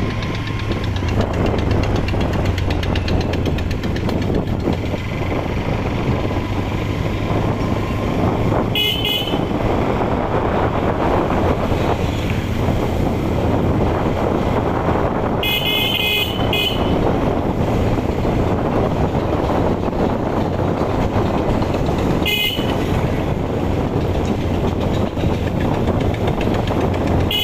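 Motorcycle riding on the road, its engine and wind noise running steadily, broken by short vehicle horn honks four times: about a third of the way in, a double toot past the middle, once more later, and at the very end.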